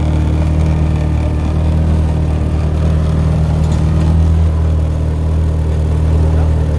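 An engine running steadily at an even speed, with a low, unchanging drone.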